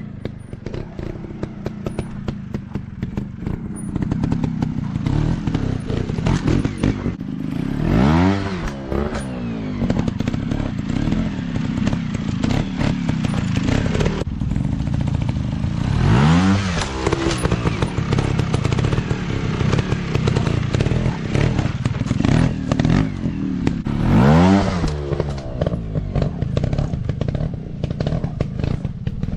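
Off-road dirt bike engine running with a steady clattering rumble, revving up and back down three times, about 8 seconds apart.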